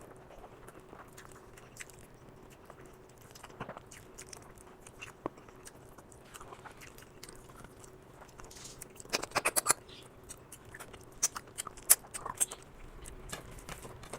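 A person chewing and eating rice and chicken curry, with a quick run of loud clicks about nine seconds in and a few sharp clicks near the end.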